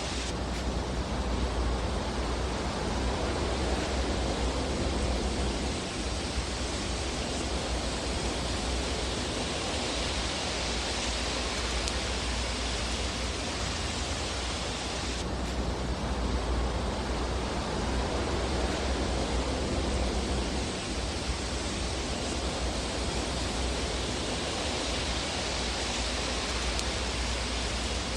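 Fireplace ambience track: a steady rushing hiss with no distinct crackles. Its tone shifts abruptly about fifteen seconds in.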